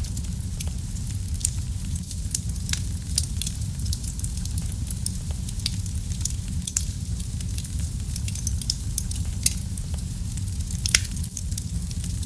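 Wood fire burning in a fireplace: a steady low rumble of flames under frequent sharp crackles and pops, with two louder pops late on.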